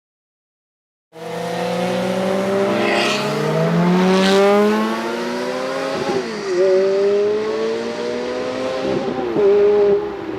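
Ferrari F430's 4.3-litre flat-plane V8 through a Capristo valved exhaust, starting about a second in and accelerating hard: the pitch climbs for about three seconds, then holds with short dips and recoveries.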